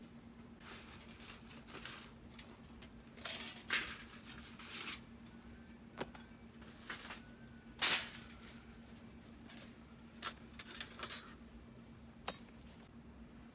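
Intermittent rustling, scraping and a few light clinks of gear or utensils being handled, over a faint steady hum.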